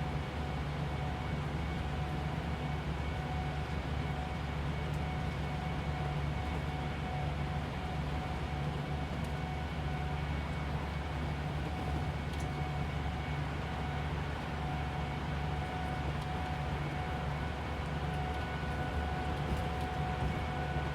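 Inside a coach bus cruising on the highway: a steady low engine and road rumble with tyre noise, and faint steady whines from the drivetrain.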